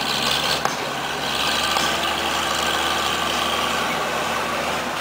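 Motocross motorcycle engines running steadily under a broad hiss.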